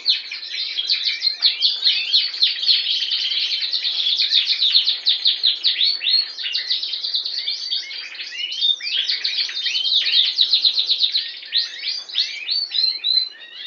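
Border canary singing: a continuous, rapid song of fast trills and chirps, easing slightly near the end.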